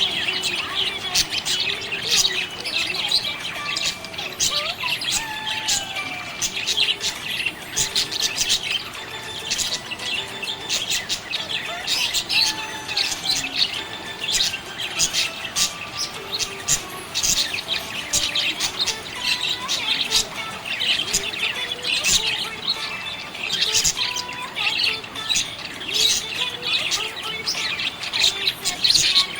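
Budgerigars chirping and chattering, a dense run of quick high chirps with short warbling glides overlapping without a break.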